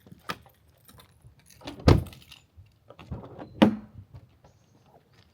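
A series of knocks and clunks from objects being handled, with two loud thuds about a second and a half apart near the middle.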